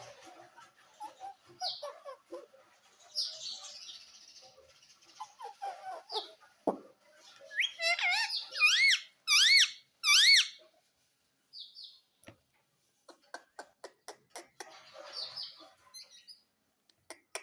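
Pet parrot vocalising: soft chattering and clicks, then a run of loud, short squawks about eight seconds in, each rising and falling in pitch. After them come a string of quick clicks and more quiet chatter.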